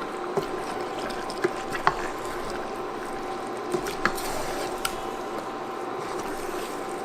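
Chicken pieces sizzling in a pan of curry spice and tomato mixture, with a spoon clicking against the pan several times as it is stirred.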